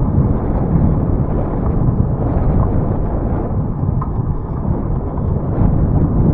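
Wind buffeting the microphone of a camera riding along on a bicycle: a loud, steady low rumble.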